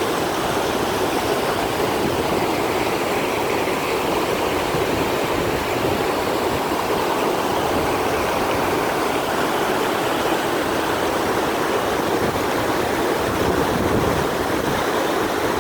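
Waterfall rushing steadily: a dense, unbroken noise of falling water that holds the same level throughout.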